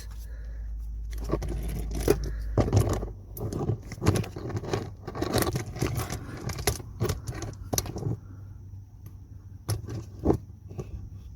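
Irregular metallic clinks, knocks and scrapes of handling, with a low hum in the first few seconds.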